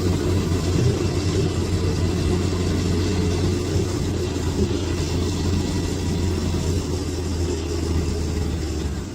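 Bulldozer's diesel engine running steadily under load, a deep even rumble with no pauses.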